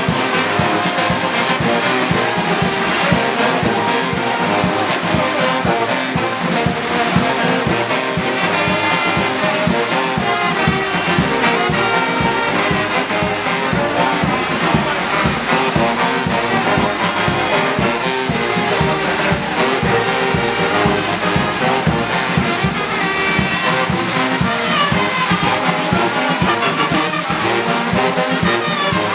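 Brass band music with trumpets and trombones playing over a steady beat, without a break.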